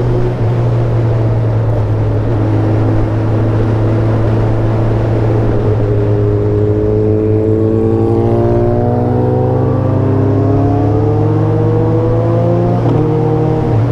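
Superbike engines running at speed on the road, one climbing steadily in pitch from about six seconds in as it accelerates, then dropping back sharply near the end.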